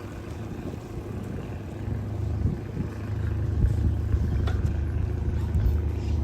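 A steady low rumble that grows louder about three seconds in.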